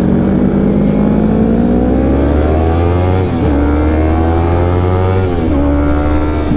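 Yamaha R3's 321 cc parallel-twin engine accelerating through the gears: the revs climb, drop at an upshift about three seconds in, climb again, drop at a second upshift a little past five seconds, then hold steady.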